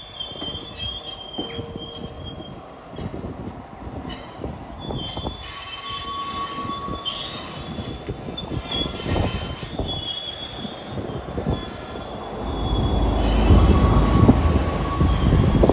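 Train wagons rolling past, their wheels squealing on the rails in high, wavering tones and clicking over the rail joints. A heavier low rumble swells about twelve seconds in.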